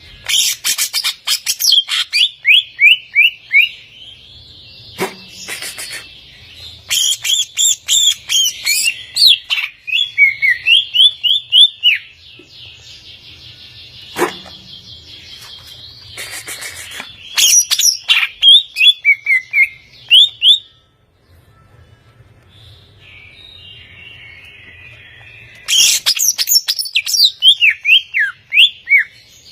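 Green leafbird (cucak ijo) singing in four loud bursts of rapid, sharp, down-slurred whistled notes, with quieter chattering between the bursts.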